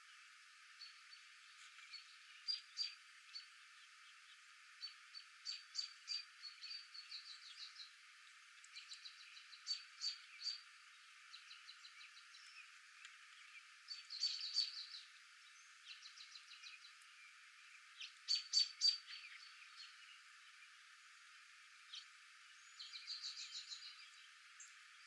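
Small birds chirping: clusters of short, high chirps and quick trills every second or two, over a faint steady hiss.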